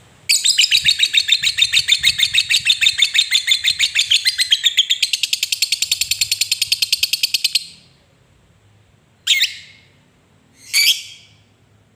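Lovebird giving its long chattering song (ngekek panjang): a rapid, even run of high notes lasting about seven seconds that shifts pattern partway through, followed by two short sharp calls.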